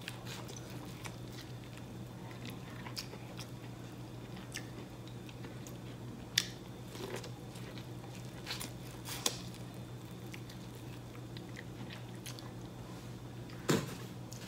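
Close-up mouth sounds of biting and chewing boiled corn on the cob: soft wet clicks and crunches, with a few sharper snaps about six and nine seconds in and near the end, over a steady low hum.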